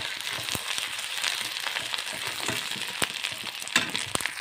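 Onions and masala sizzling in hot oil in a kadai, with a flat metal spatula scraping and clinking against the pan as it is stirred.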